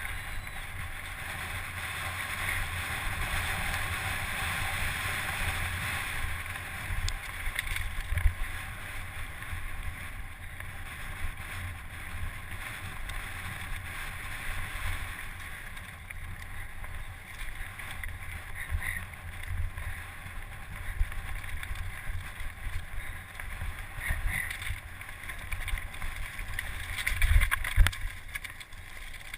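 Steady rushing wind noise on the microphone, with low buffeting rumbles throughout and a louder cluster of thumps near the end.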